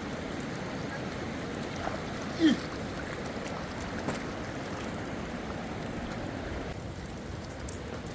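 Steady rush of river water. About two and a half seconds in, a brief falling tone stands out above it as the loudest sound.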